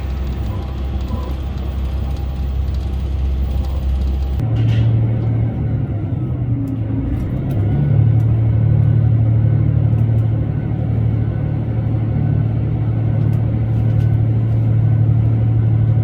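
Diesel railcar engine of a KiHa 281 series express DMU running under power, a steady low drone. It jumps to a higher note about four seconds in, then steps up again near eight seconds and grows louder, like a train picking up speed.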